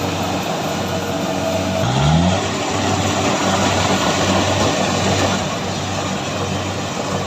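Kubota combine harvester's diesel engine and threshing machinery running steadily, with a brief rise in engine pitch about two seconds in.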